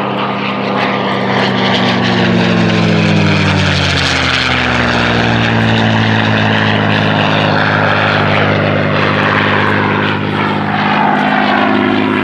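P-51D Mustang's Packard-built Merlin V-12 engine running at display power in a flypast. Its note drops in pitch over the first few seconds as the aircraft passes, then holds steady.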